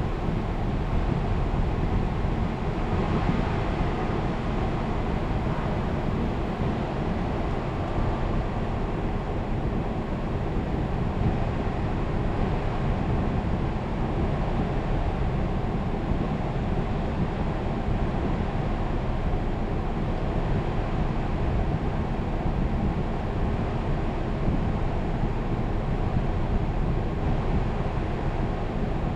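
Nissan Serena's four-cylinder petrol engine idling steadily with fresh spark plugs and ignition coils, during the idle air volume relearn.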